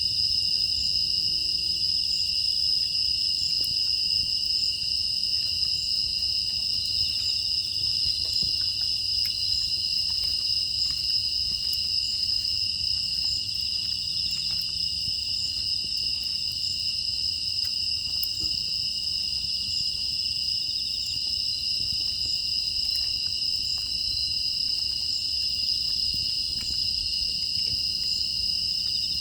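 Chorus of crickets and other grass insects trilling steadily at two high pitches, with faint scattered ticks underneath.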